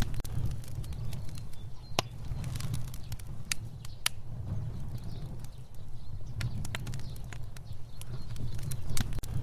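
Fire burning with a steady low rumble of flame, broken by irregular sharp crackles and pops about once a second.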